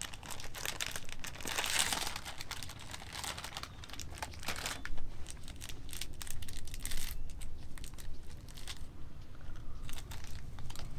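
Crinkling and rustling of packaging being handled, with some tearing; dense for the first few seconds, then sparser.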